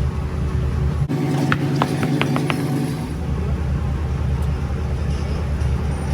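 Pickup truck on the move, a steady low engine and road rumble. About a second in, the rumble drops out for two seconds, during which there are several short, sharp clicks.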